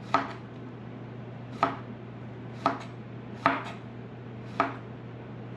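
Kitchen knife chopping lettuce on a cutting board: five separate strokes, each a sharp knock of the blade on the board, about a second apart.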